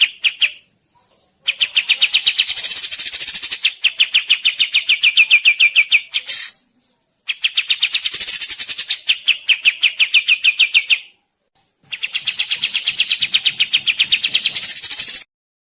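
A songbird singing rapid, evenly repeated chirping notes, about ten a second, in phrases a few seconds long with short pauses between them, higher-pitched notes mixed into each phrase. Three full phrases follow the tail of a fourth.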